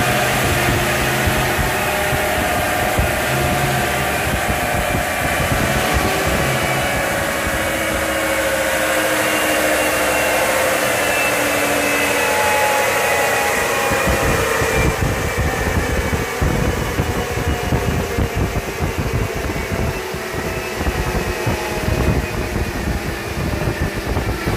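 Ford Ranger engine running under load on a chassis dynamometer during a power run after an ECU remap, with a steady pitched drone. About fifteen seconds in, the tone drops away and a rougher, uneven rumble takes over.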